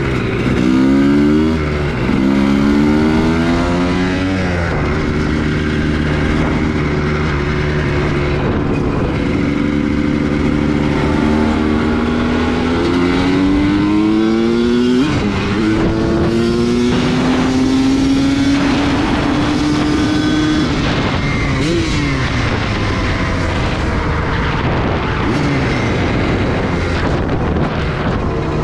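2003 Honda CR250R's two-stroke single-cylinder engine pulling up through the gears, its pitch rising in quick steps with breaks at the shifts in the first few seconds, then holding steady while cruising. It revs up and shifts again about halfway through, holds, and then drops in pitch as the throttle comes off, with wind noise over it.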